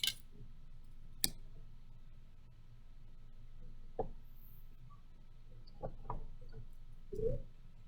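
A few scattered light clicks and knocks of a ruler and pencil being set down and moved on paper on a desk while drawing.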